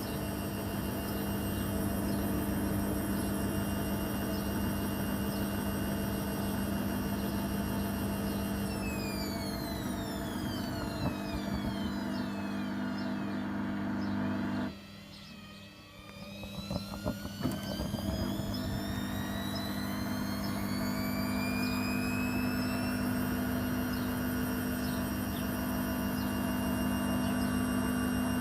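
Logik L612WM16 washing machine on spin. Its motor whine slides down as the drum slows, and the motor cuts out for about a second around halfway through. The whine then climbs again as the drum ramps back up and settles at full spin.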